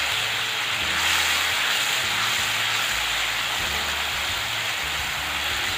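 Tomato, ginger and green chilli paste sizzling steadily as it fries in hot oil.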